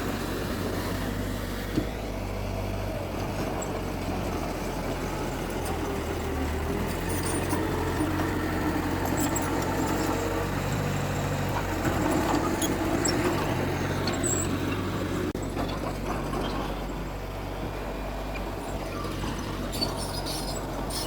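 Heavy diesel earthmoving machinery running steadily. The engine note shifts in pitch a few times, with a short sharp knock about two seconds in.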